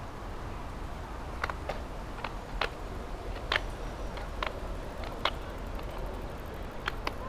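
Steady wind and road rumble from a bicycle ride, with about nine sharp, irregular clicks scattered through it.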